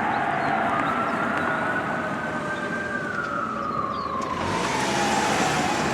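Fire truck siren wailing, rising slowly in pitch and then falling. A rushing hiss joins about two-thirds of the way in.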